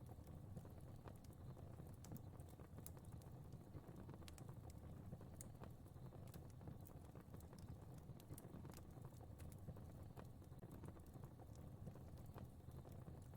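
Fire in a fireplace crackling faintly: scattered small pops and snaps over a soft low rumble of burning.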